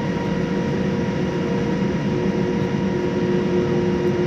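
Steady cabin noise inside a Boeing 787-9 with its engines running: an even rumble and rush of air carrying a few held humming tones, without change.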